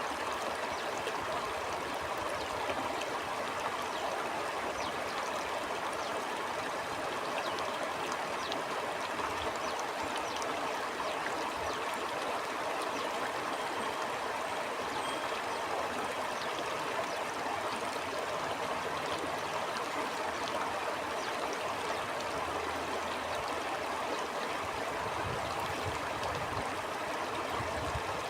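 A stream of water flowing steadily, a continuous even rush of water.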